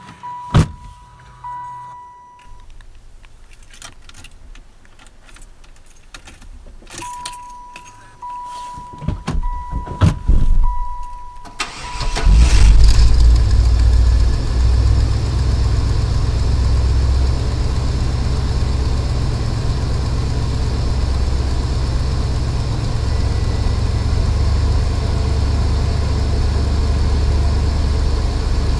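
1996 Buick Roadmaster wagon's LT1 350 V8 on a cold start. First a pulsing electronic warning chime with clicks and key rattles, then a brief crank, and the engine catches about twelve seconds in. It then settles into a steady, even idle.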